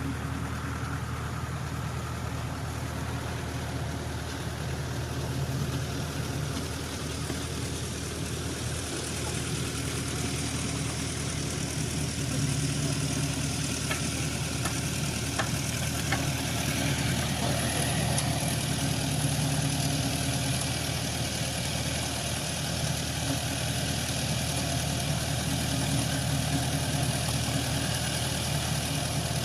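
Engine idling steadily, a low even hum that grows a little louder about halfway through.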